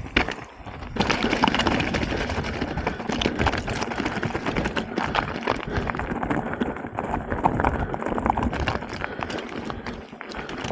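Mountain bike riding over a rough, rocky trail: tyres crunching on stones and the bike rattling, with a dense run of irregular clicks and knocks from about a second in.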